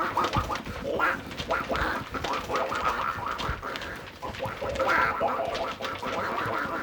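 Repeated short quacking calls, duck-like, one after another with brief gaps.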